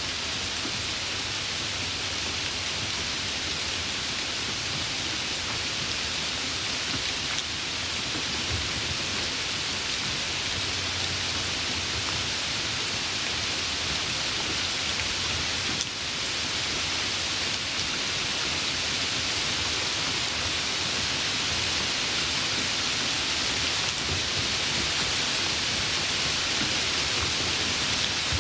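Heavy rain falling steadily, an even hiss of downpour with no break.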